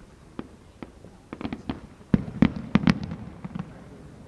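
Fireworks going off: a few single pops, then a quick cluster of bangs about halfway through, loudest between two and three seconds in, thinning out near the end.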